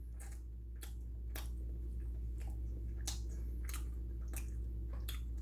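Light, irregular clicks and taps of supplement bottles being handled, over a steady low hum.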